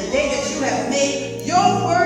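Slow gospel singing with instrumental accompaniment; a steady low bass note comes in at the start under the sung phrases.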